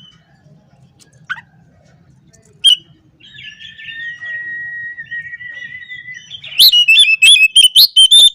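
Oriental magpie-robin singing: a few sharp single notes, then a long warbling phrase, ending in a loud run of rapid, sharp repeated notes, about five a second.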